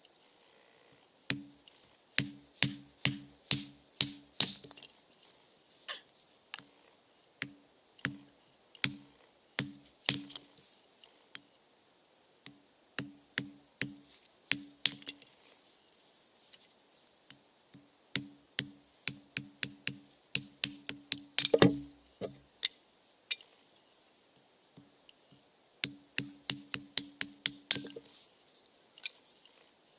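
Firewood being split with repeated strikes on a blade: sharp knocks in quick runs of about three a second, each with a short low ring, with pauses between runs. One hit about two-thirds of the way through is louder than the rest.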